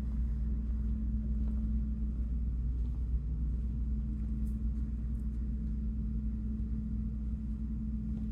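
Steady low rumble with a constant hum underneath; no distinct event stands out.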